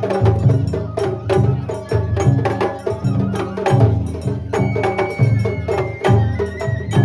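Japanese festival float ohayashi: taiko drums beating about once a second under quick, sharp clicking strikes. Near the middle, a high bamboo flute holds one note for a second or so.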